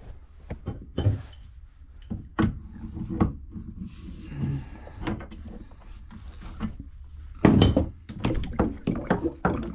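Scattered clicks and knocks of tools and fittings being handled while a pressure valve is taken off a boat's water heater. A soft hiss comes about halfway through, and a burst of louder knocks follows near the end.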